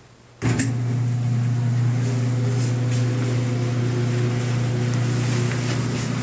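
GE electric dryer starting up about half a second in and running: a steady motor hum with the drum turning. Turning the new knob now starts the dryer, so the cracked knob was the fault.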